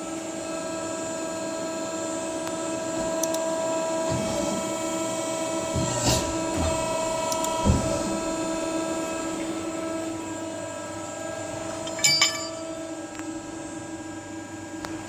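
TP10S press brake's VFD-driven motor running with a steady hum while idling between bends. A few knocks are heard around the middle, and a louder clatter comes about twelve seconds in.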